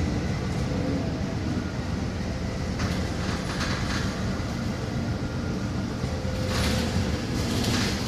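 Steady engine and road rumble heard from inside a moving city bus, with brief hissing rushes about three seconds in and again near the end.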